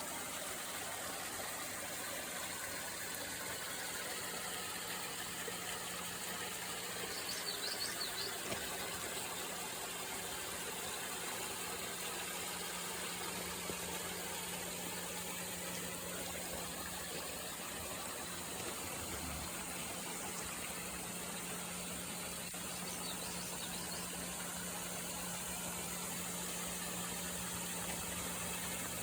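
Steady rain falling, an even hiss, over a constant low hum. Brief high chirps come through twice, about eight seconds in and again near twenty-three seconds.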